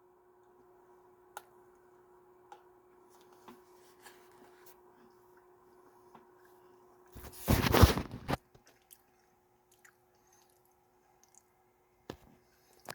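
A person eating a poke bowl: faint chewing and small clicks over a steady low hum, with one loud crackling burst lasting about a second about seven seconds in, and two sharp clicks near the end.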